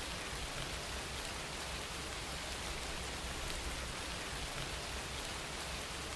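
Steady rain falling on a surface, an even hiss with fine drop patter and a low rumble underneath.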